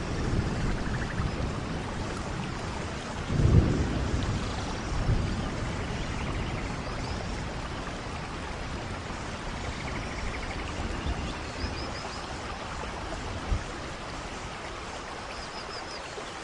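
Steady rainfall with low rolls of thunder, the strongest about three and a half seconds in.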